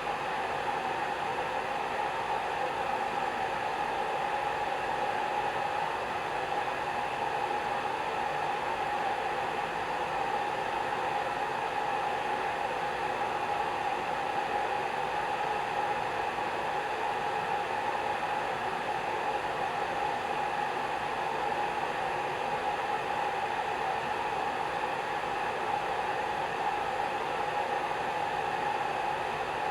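Hair dryer running continuously: a steady blowing hiss with a constant mid-pitched motor hum.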